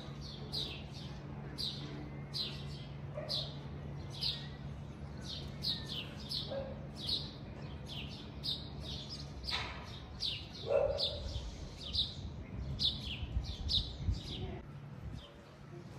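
Small birds chirping, short quick downward chirps one or two a second, over a steady low hum that stops about nine seconds in.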